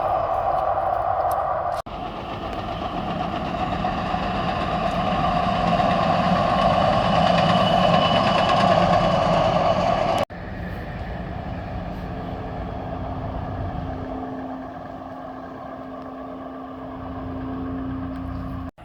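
DART light rail train running by: a steady noise of wheels on rails, strongest in the middle. It is split into three stretches by sudden cuts about two and ten seconds in, and a low steady hum comes in during the last stretch.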